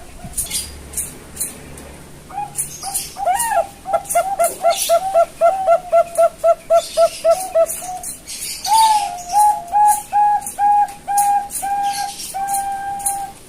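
Young Bangkok-strain zebra dove (perkutut) cooing: a quick stuttering run of short notes, about three or four a second, then a slower series of longer held coos about a second apart.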